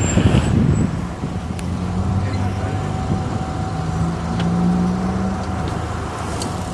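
A vehicle engine running steadily at low revs, a low hum that swells slightly partway through, with a faint steady whine above it.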